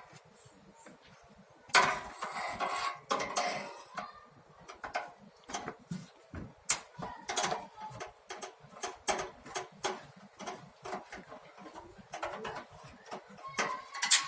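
Light metallic clicks and clatter of tools and small metal parts being handled while the screws of a gas water heater's water valve cover are undone, with a longer rattle about two seconds in.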